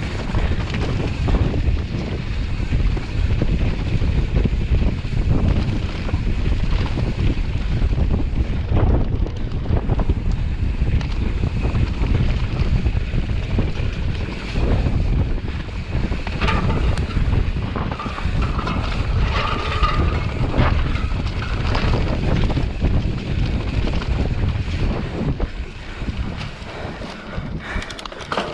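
Wind buffeting the microphone: a loud, steady low rumble that keeps rising and falling without any rhythm.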